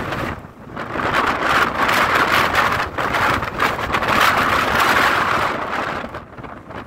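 Strong typhoon wind gusting across the microphone, a loud rushing noise that surges and eases, dipping briefly about half a second in and dropping off near the end.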